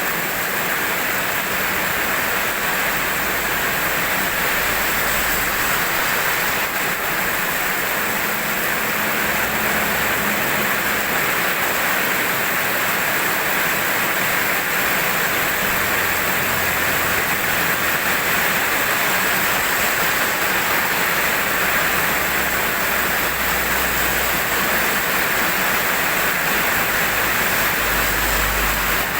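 Steady heavy rain: a dense, even hiss of falling rain.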